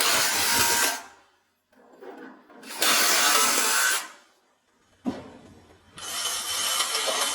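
Workshop power-tool noise in three hissing bursts, each about a second long, with the third starting about six seconds in and carrying on.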